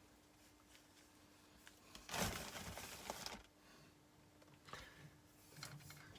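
Mostly near silence, with a brief rustling scrape about two seconds in and a few faint clicks near the end, like an old black-and-red cable being handled at a bench.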